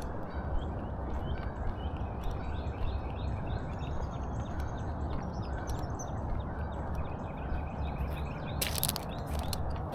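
Steady outdoor background noise with small birds chirping faintly throughout, and a couple of sharp clicks about nine seconds in.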